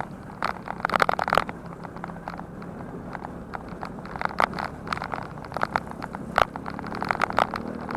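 Bicycle rattling and clicking over rough ground: irregular knocks and crunches in clusters, over a steady low hum.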